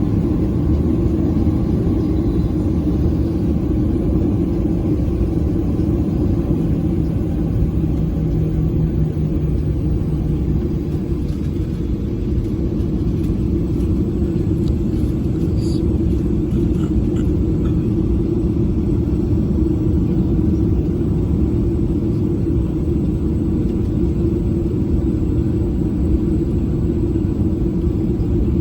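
Steady low rumble of a Boeing 737 in flight, heard inside the passenger cabin: engine and airflow noise.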